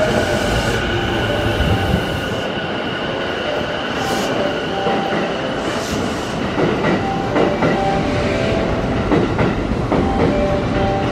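Orange-striped Chuo Line E233-series electric commuter train running past a station platform, wheels clattering over rail joints under a steady high whine, with short wheel squeals in the second half.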